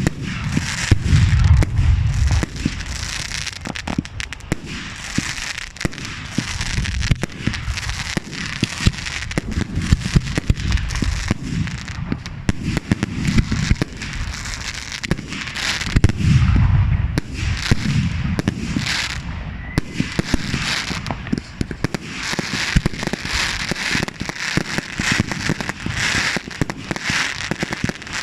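Fireworks barrage: a dense, unbroken stream of rapid bangs and crackling, with heavier, deeper booms standing out near the start and again about two-thirds of the way through.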